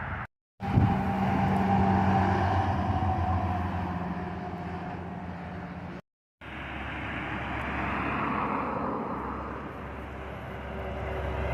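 Heavy truck running with a steady low engine hum and road noise, in short clips cut together with two brief silent breaks.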